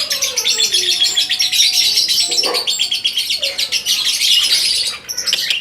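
A songbird singing a rapid, continuous run of high chirping notes, pausing briefly near the end before starting again.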